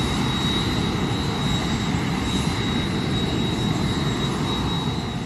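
Airbus Helicopters (Eurocopter) EC135 T1 twin-turbine helicopter running close by: a steady high turbine whine over a loud, even rotor and engine rumble.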